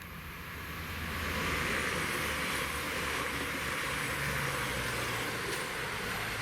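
Train passing close by on the railway line, the rumble and rush of its wheels on the rails building over the first second or two and then staying loud and steady under a low engine hum.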